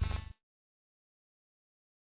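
Dead silence, after the tail of a louder sound fades and cuts off about a third of a second in.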